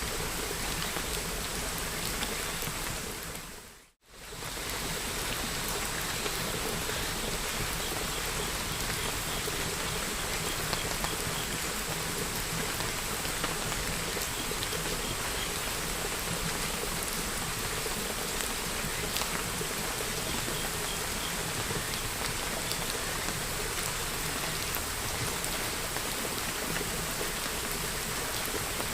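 Steady rain falling. The sound fades out to silence about four seconds in, then fades straight back up.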